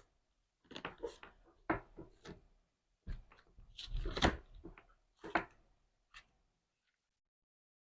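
Slime being squeezed and poked by hand: a run of irregular wet squishes and crackles, thickest in the middle, stopping about six seconds in.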